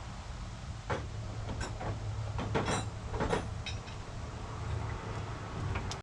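Several sharp metal clinks and clanks of a wrench against hydraulic fittings and hard lines on a tractor loader, over a steady low hum.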